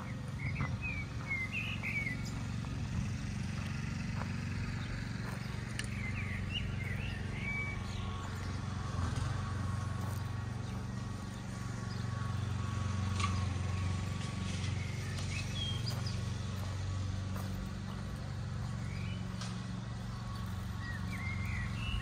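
Small birds chirping in short bursts several times, over a steady low outdoor rumble, with soft footsteps of someone walking on grass.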